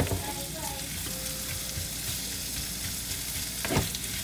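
Chopped yellow onion with ginger and garlic sizzling steadily in hot oil in an aluminium wok while a wooden spatula stirs and scrapes it, knocking against the pan at the start and again near the end.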